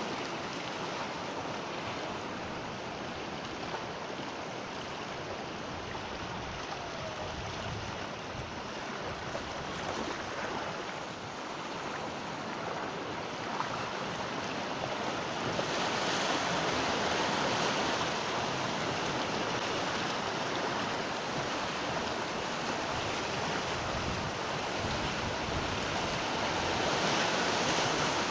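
Ocean waves breaking and washing on the shore, a steady rush of surf that swells louder about halfway through.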